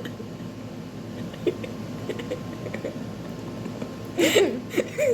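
Faint small clicks and rustles, then a short burst of laughter about four seconds in, with a brief second burst near the end.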